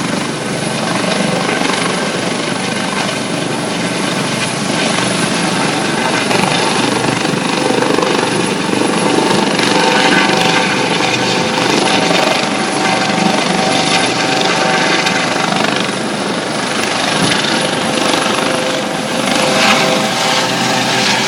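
Helicopter running steadily, a dense rushing noise with a few steady whining tones.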